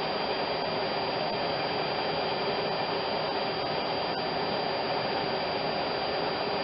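Steady, even whooshing noise like a blower running, with a faint click about four seconds in.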